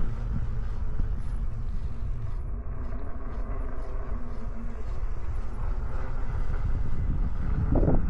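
Wind rumble on the microphone and the sound of riding an e-bike along a trail, with a faint steady hum above the rumble. A short louder sound comes near the end.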